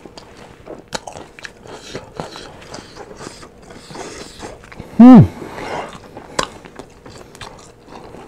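Close-up chewing and crunching of crisp fried chicken, with irregular bites and mouth clicks. About five seconds in, a brief loud vocal sound that falls in pitch.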